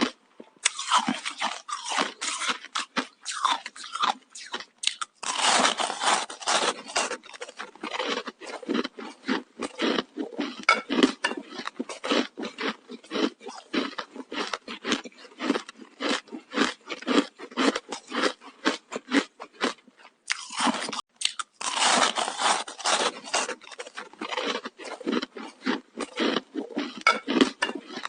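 Hard ice being bitten and chewed close to the microphone: rapid, sharp crunching and cracking of frozen ice sticks between the teeth. Twice, at about five seconds and about twenty-one seconds in, comes a longer, denser stretch of crunching.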